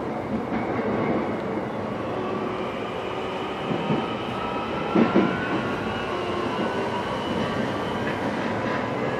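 Interior of a JR East E131 series electric train on the move: steady wheel-and-rail running noise with a faint whine over it, and a short clatter of knocks about five seconds in.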